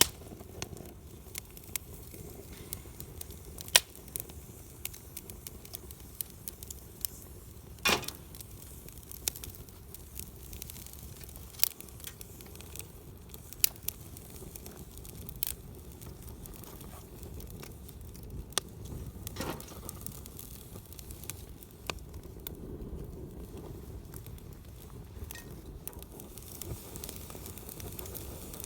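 Wood campfire burning: a steady low rush of flames under scattered sharp crackles and pops, a few of them much louder than the rest.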